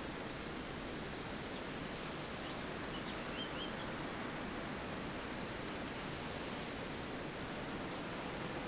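Steady wind rushing through forest trees, with a few faint, short bird chirps about three seconds in.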